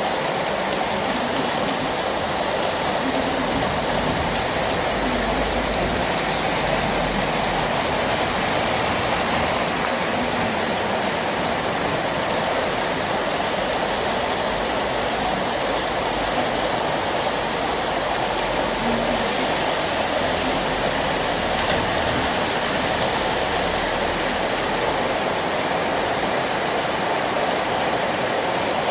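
Heavy thunderstorm downpour: rain pouring down hard and steadily, a dense, even hiss with no let-up.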